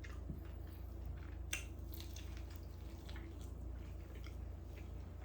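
Faint wet chewing and mouth clicks of a man eating fried chicken, with one sharper click about a second and a half in, over a steady low hum.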